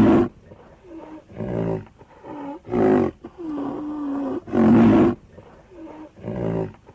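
Rhinoceros calling: a series of rough, low-pitched calls about one a second, the loudest near the start and a little before the end, with one longer, steady call in the middle.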